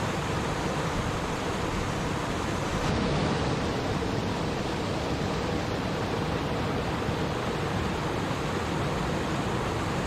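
Water in a stream flowing and babbling, a steady rushing with no breaks.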